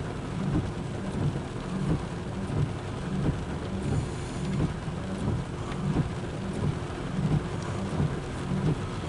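Loaded autorack freight cars rolling past with a steady rumble, their wheels clacking over the rail joints about every two-thirds of a second.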